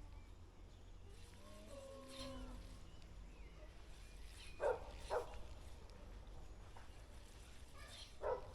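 Three short animal calls, two close together about halfway through and one near the end, over a steady low rumble.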